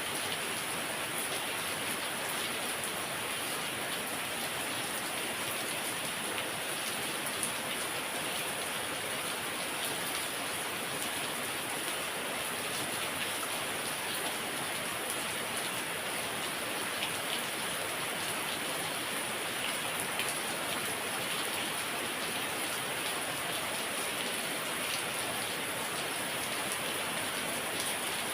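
Heavy rain falling steadily, a dense even hiss with the patter of drops striking surfaces.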